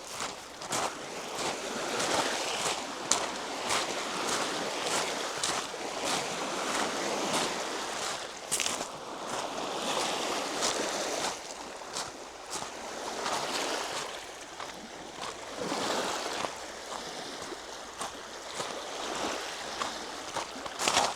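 Lake Michigan waves washing onto the shore, a hiss that swells and fades every few seconds, with a walker's footsteps clicking at a steady pace.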